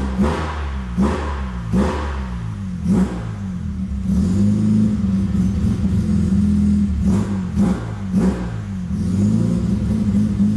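Mazda RX-7 FB's two-rotor Wankel rotary engine through a large stainless steel exhaust, blipped repeatedly from a lumpy idle. It is held at a steady higher rev for about three seconds in the middle, then blipped again several times in quick succession, with the typical rotary brap.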